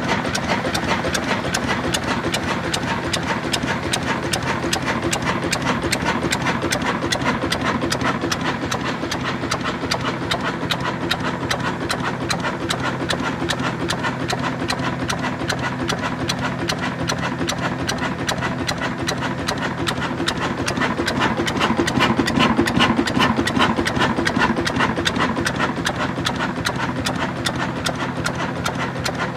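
Old stationary diesel engine running steadily with a fast, even knocking beat, swelling a little louder a little past the middle.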